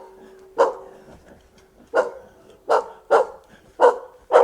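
A dog barking: six short, sharp barks at uneven intervals.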